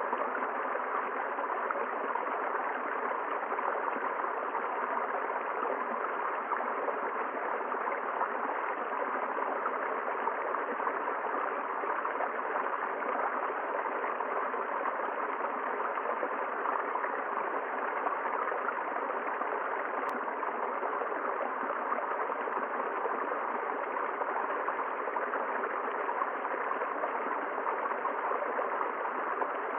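River water running steadily, an even, unbroken flow of water noise.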